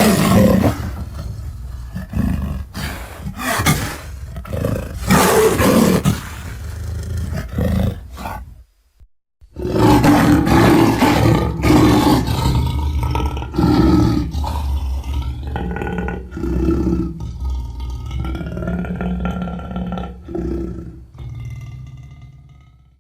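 Sound-effect lion roars and growls, built from lion recordings: a run of short rough bursts, a brief pause, then a longer sequence that trails off near the end.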